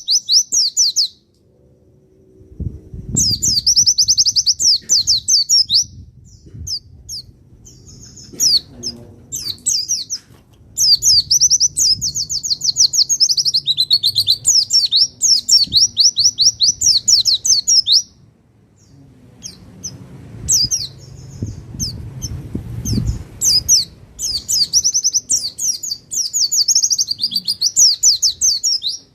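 A pleci (white-eye) from Pacitan singing long bouts of rapid, high twittering trills. Short single chirps fall between the bouts.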